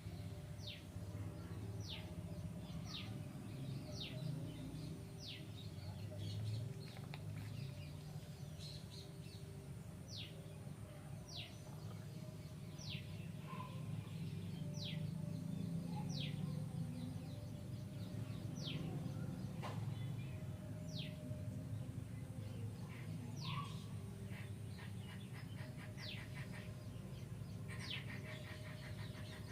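A bird calling over and over, each call a short high note sliding steeply downward, repeated about once a second, over a low steady background rumble.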